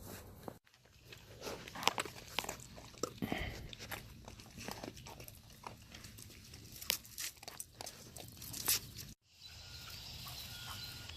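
Puppies play-fighting and mouthing, with irregular crunching, clicking chewing and biting noises and a few faint squeaks. The sound drops out briefly twice.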